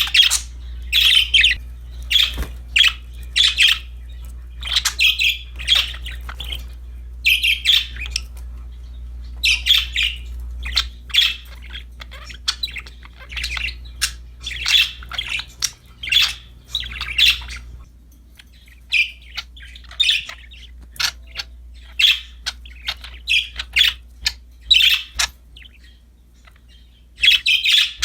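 Budgerigars chirping and chattering in quick, irregular clusters of short high calls with occasional squawks, over a faint low hum that drops away about two-thirds of the way through.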